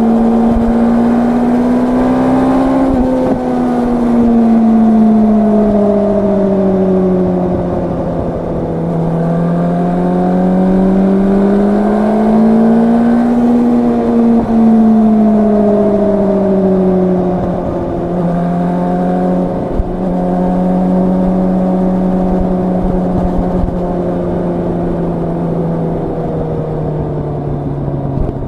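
Yamaha R1's crossplane inline-four engine under way, its pitch rising and falling smoothly twice as the throttle is rolled on and off, then holding nearly steady and slowly dropping near the end.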